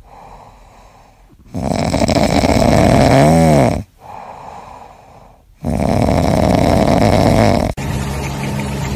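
A sleeping pet snoring: two long, loud snores of about two seconds each, with quieter breaths in between. The first snore has a brief rising and falling pitched whistle. Near the end the sound cuts abruptly to a different steady hum.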